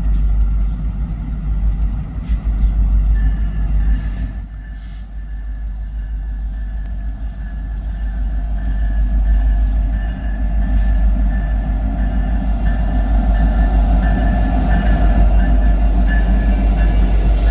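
A train running past with a steady low rumble, and a thin high tone coming in about three seconds in.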